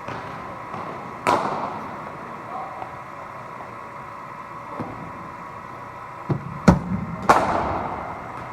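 Cricket ball struck by a bat off a bowling machine: a sharp knock with a ringing echo about a second in, then a cluster of knocks near the end, the sharpest one the loudest, over the steady hum of the running bowling machine.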